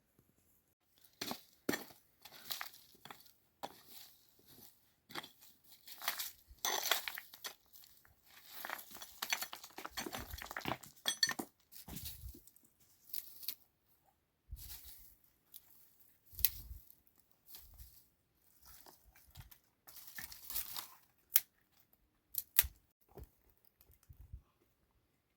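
Irregular crinkling, crunching and rustling, with sharp clicks and occasional clinks, in uneven bursts: things being handled by hand.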